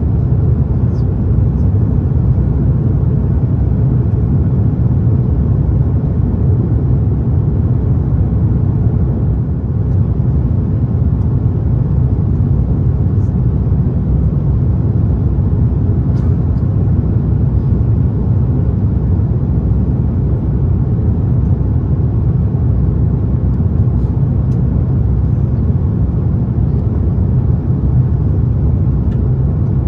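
Steady low rumble of engine and airflow noise heard inside the economy cabin of an Airbus A330-900neo in flight.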